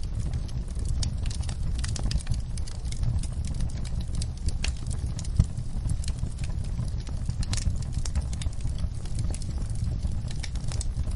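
Campfire burning: a steady low rumble of the flames with frequent irregular crackles and pops, one louder pop about five seconds in.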